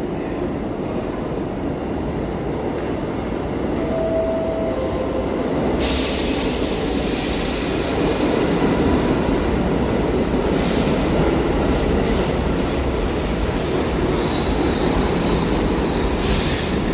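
New York City Subway train running on the track with a steady rumble of wheels on rails and some wheel squeal. A sharp hiss sets in suddenly about six seconds in and carries on, and the whole sound grows a little louder.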